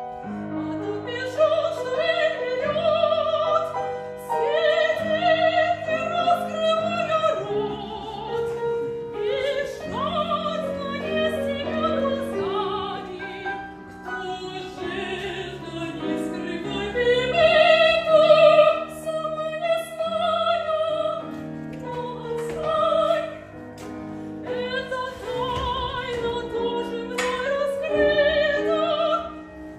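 Operetta number sung in classical operatic style with vibrato, accompanied by piano.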